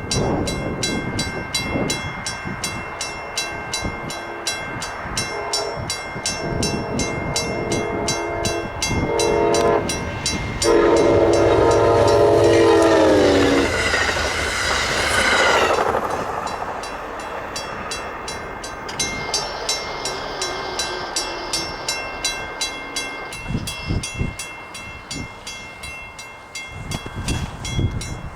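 Passenger train passing at speed with its wheels clicking rapidly and evenly over the rails. Shorter horn sounds come first, then one long, loud horn blast whose pitch drops as the train goes by, followed by a rush of noise.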